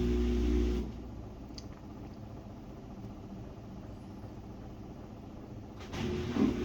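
Samsung WA50R5200AW top-load washing machine's motor running in bursts: a steady hum that stops about a second in, a quieter pause of about five seconds, then the hum starting again near the end.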